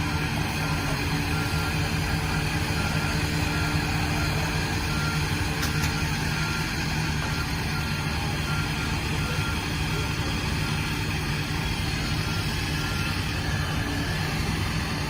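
Ford F650 rollback truck's engine idling steadily with an even low hum.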